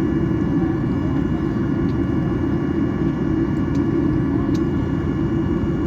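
Steady low rumble with a faint steady whine over it, heard inside the cabin of a Boeing 737-800 while it is being de-iced.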